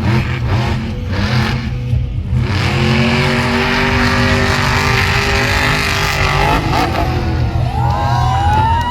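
Monster truck engine revving up about two and a half seconds in and holding high revs over a heavy low rumble, with a high wavering sound near the end.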